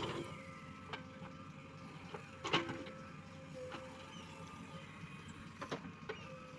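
JCB 3DX Plus backhoe loader working, its engine and hydraulics giving a steady hum with a held tone. Several sharp knocks cut through it: one at the very start, the loudest about two and a half seconds in, and two more near the end.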